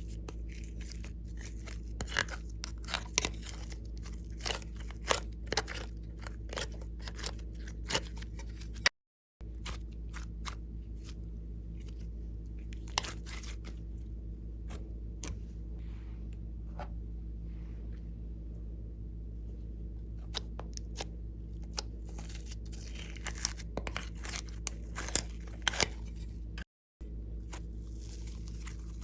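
Slime being squeezed and kneaded by hand, making crackling pops and crunchy clicks from trapped air and mixed-in bits, over a steady low hum. The sound cuts out briefly twice.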